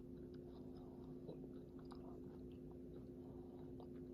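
Near silence: room tone with a steady low electrical hum and a few faint small clicks.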